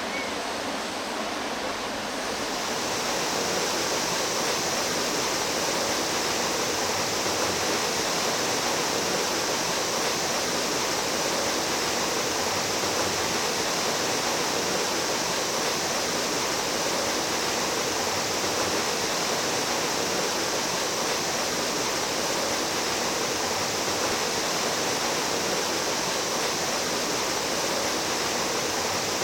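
Mountain stream water rushing steadily, growing a little louder and hissier about two or three seconds in.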